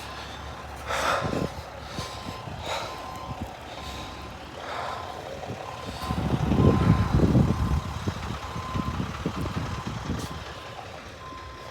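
A vehicle's reversing alarm beeping repeatedly at one pitch over the low rumble of an idling truck engine. The rumble swells louder about six seconds in.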